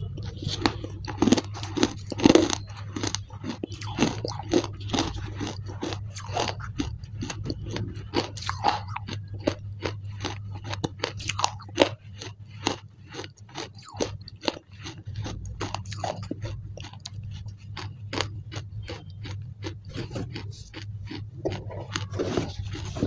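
Close-miked chewing of a mouthful of gritty clay paste: a dense run of crunching and wet mouth clicks, several a second, over a steady low hum.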